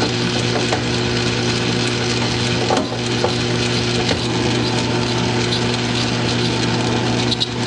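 South Bend lathe running with a steady hum while a boring bar is fed dead slow into the bore, giving a rough, continuous scraping cutting noise.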